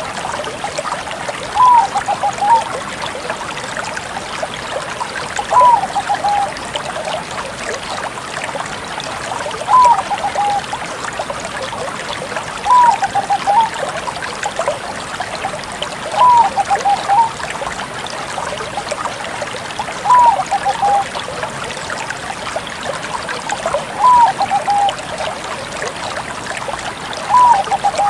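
Bangkok-type zebra dove (perkutut) cooing: a short phrase of a high first note followed by a few quicker lower notes, repeated about eight times, roughly every four seconds, over a steady background hiss.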